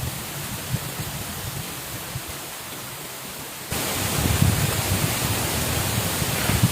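Steady rushing water noise with a low rumble, stepping up abruptly louder a little over halfway through.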